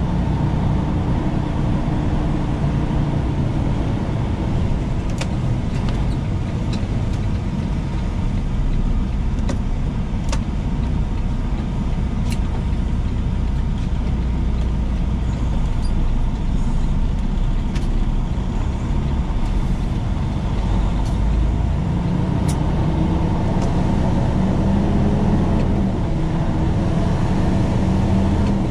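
Semi-truck's diesel engine and road noise heard from inside the cab while driving, a steady low rumble; the engine pitch climbs from a little past the two-thirds mark as the truck speeds up.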